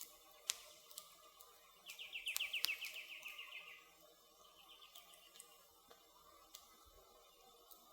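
Wood fire crackling, with scattered sharp pops. About two seconds in, a bird gives a rapid high trill of quickly repeated notes lasting nearly two seconds, the loudest sound here. A fainter trill follows about a second later.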